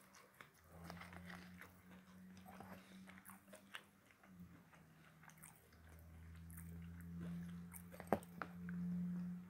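Faint close-up chewing and crunching of food, with small mouth clicks, over a steady low hum that swells louder in the second half. A sharp click stands out about eight seconds in.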